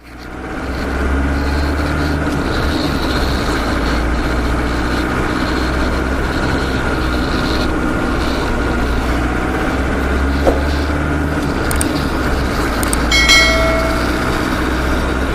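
Steady running of a vehicle engine, fading in at the start, with a short horn toot about two seconds before the end.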